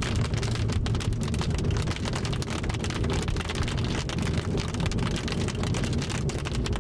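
Hail and rain hitting a moving car, a dense, unbroken run of small hits on the body and windshield over the low road and engine rumble. The hail is light.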